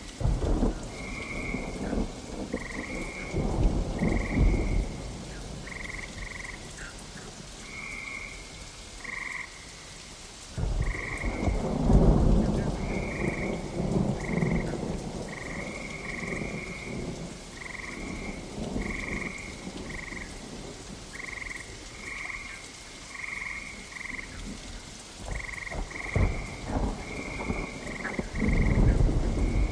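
Steady rain with several low rolls of thunder, the loudest about eleven to twelve seconds in. Frogs call over it in short repeated high notes, one or two a second.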